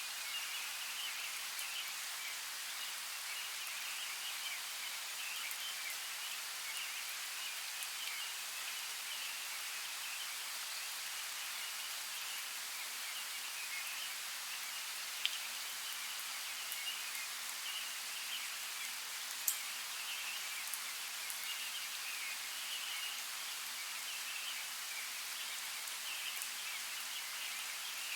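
Forest creek running water: a steady, even hiss, with a few sharp drip-like clicks partway through.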